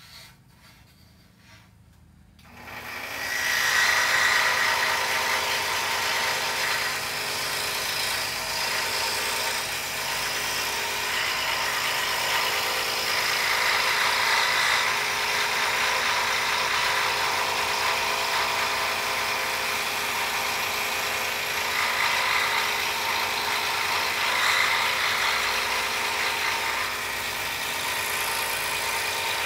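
Scroll saw starting up about three seconds in, then running steadily as its fine blade cuts through a poplar board.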